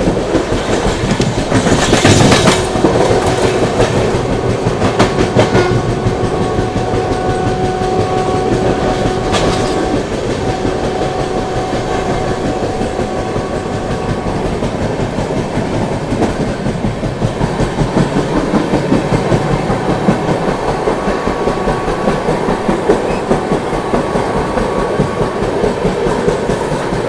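Express passenger train running at speed, its wheels clattering over the rail joints over a steady rumble and rush, with a louder surge about two seconds in.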